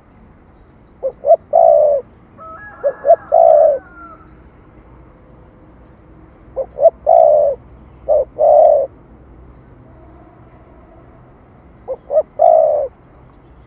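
Spotted dove cooing in the deep 'thổ' style, the song used to rouse decoy doves. It gives five phrases, each of two or three quick short notes and then a longer drawn-out coo, with pauses of a second or more between them.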